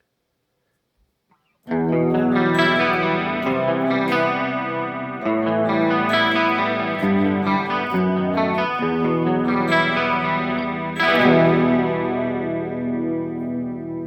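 Electric guitar played through a chorus pedal: after a short silence, chords are picked and strummed and left to ring, with a shimmering, doubled tone.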